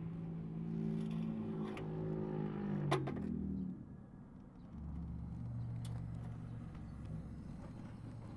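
Harley-Davidson Street Bob's V-twin engine running through its muffler. The note is steady, with a sharp click about three seconds in. Just before four seconds it dips for about a second, then settles back into a lower, steady note.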